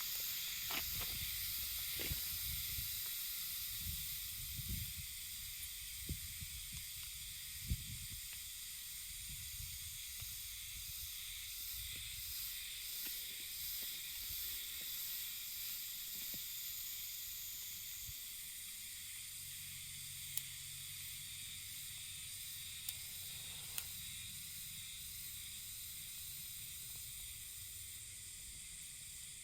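A steady high hiss with a low rumble beneath, broken by a few short knocks and clicks.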